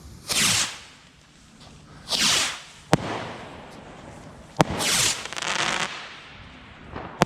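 Fireworks going off: three hissing whooshes of launching shots, each followed by a sharp bang, the bangs about three, four and a half and seven seconds in.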